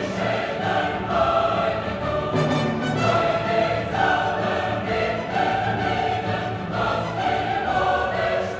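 Choral music: a choir singing held notes that move from one pitch to the next about once a second.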